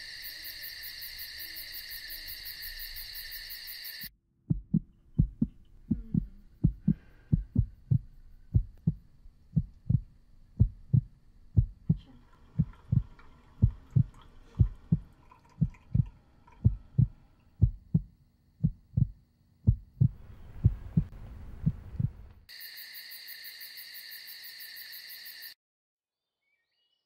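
Heartbeat sound effect: low thuds at about two a second over a faint hum, between stretches of steady high chirring like crickets at the start and near the end. The sound cuts to silence just before the end.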